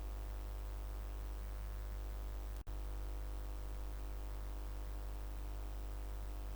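Steady low electrical hum with a faint hiss over it and nothing else. It cuts out for an instant about two and a half seconds in.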